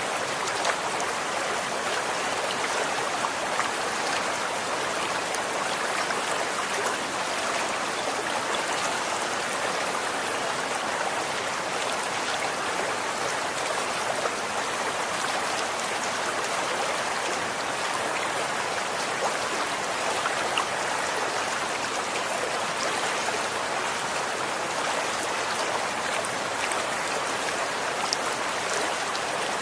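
Running water flowing in a steady, even rush, with faint small splashes and drips scattered through it.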